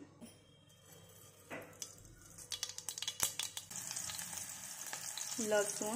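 Chopped garlic and sliced green chillies frying in hot oil in a saucepan: crackling starts about halfway in and settles into a steady sizzle.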